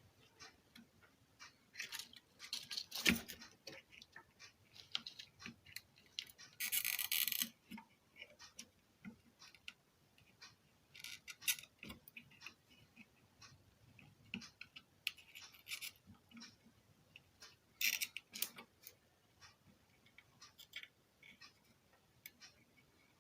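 Scattered light clicks, taps and scratches of hand tools working on an amplifier circuit board, with a sharper knock about three seconds in and a hiss lasting about a second around seven seconds in.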